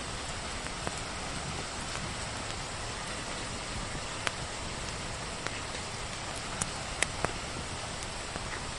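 Steady rain with a wood fire crackling over it, heard as a few sharp pops, mostly in the second half.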